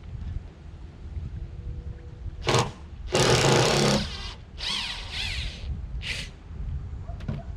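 A power tool run in four short bursts, the longest about a second, its whine wavering in pitch in the third.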